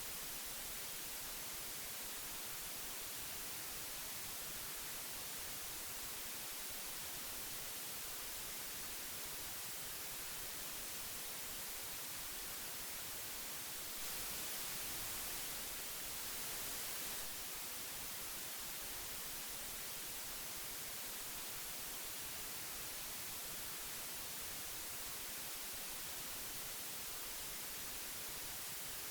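Old analogue tape hiss: a steady, even hiss, brightest in the treble, that grows slightly louder for about three seconds near the middle.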